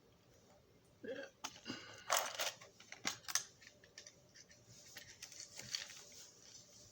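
Scattered sharp clicks and short scraping sounds of small drill bits being handled and tried in a hole, with no motor running.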